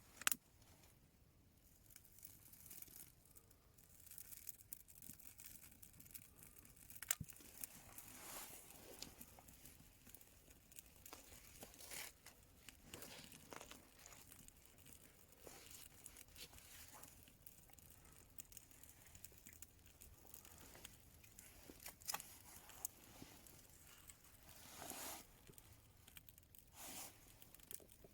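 Faint, sparse crackles and rustles, with a few sharp clicks spaced several seconds apart and a couple of longer soft rustling swells.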